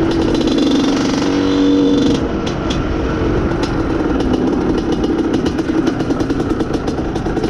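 IZh Planeta Sport's single-cylinder two-stroke engine running under way, its note swelling about a second in and then easing back to a steady pull.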